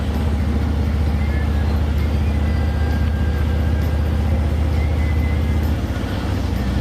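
Harley-Davidson motorcycle engine running steadily at highway speed, with wind rushing past; the engine note changes about six seconds in.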